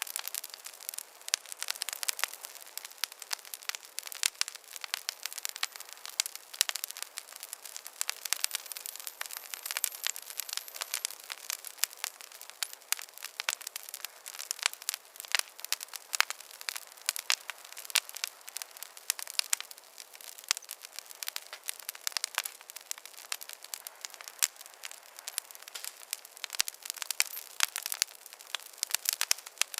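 Wood fire crackling steadily: dense, irregular sharp pops and snaps over a soft hiss, with no low rumble.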